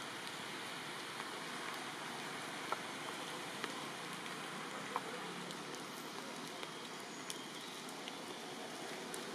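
Steady rain falling, a continuous even hiss, with a few louder single drips landing close by.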